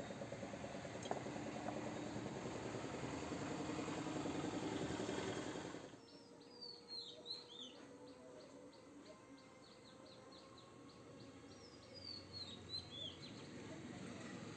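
Steady background noise that cuts off abruptly about six seconds in, followed by small birds chirping: two bouts of short, quickly falling chirps.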